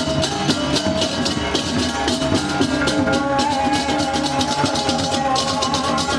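Balinese baleganjur gamelan playing: fast, continuous clashing of small cymbals over drums and ringing tuned gongs.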